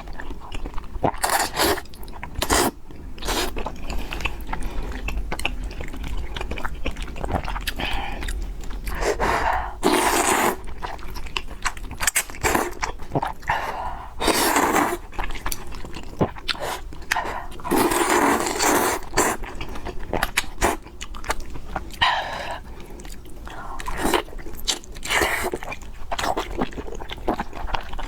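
Close-miked eating sounds: chewing and biting of spicy noodles and pork, with a few louder, longer noisy stretches of a second or so.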